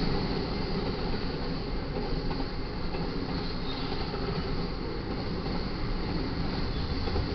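Cars of a BNSF intermodal freight train rolling past: steady wheel-on-rail noise with no break.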